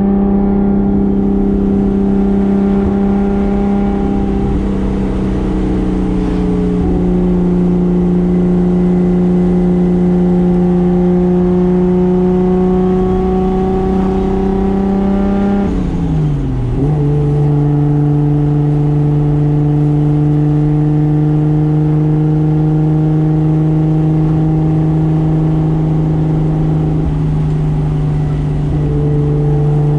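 Single-turbo 2JZ straight-six engine of a 1995 Toyota Soarer running under way at a fairly steady engine speed. Its note sags slowly, then drops quickly a little over halfway through and holds steady at the lower pitch.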